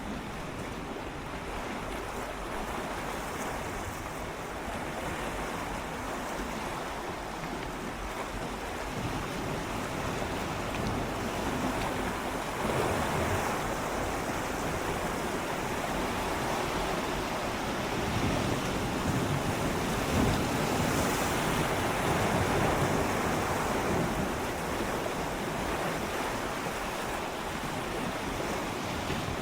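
Gentle sea waves swirling and lapping against shoreline rocks, a steady wash that swells louder in the middle and eases off again near the end, with some wind on the microphone.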